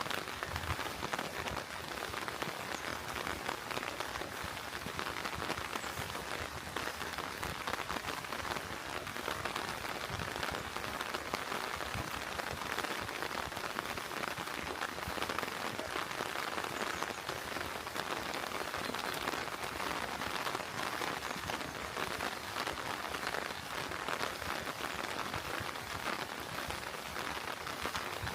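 Steady rain falling, a dense even patter of many small drops hitting surfaces.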